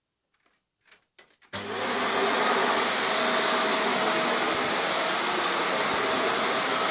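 Vax Air Lift Steerable Pet Max upright vacuum cleaner switched on about a second and a half in: the motor spins up with a brief rising whine and settles into a steady running noise, brush bar not yet engaged.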